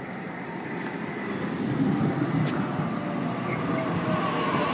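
Sydney Trains Waratah (A set) electric suburban train starting to pull away from the platform, its rumble and the faint whine of its traction motors growing louder over the last couple of seconds.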